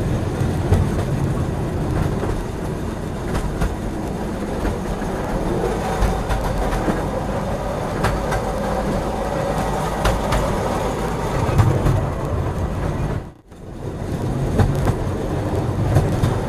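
Train running along the rails: a steady low rumble with the clicking of wheels over rail joints. The sound cuts out briefly about thirteen seconds in, then comes back.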